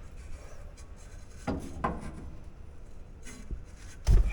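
Light rubbing and scraping as brake caliper parts and slide pins are handled, with a dull low thump near the end.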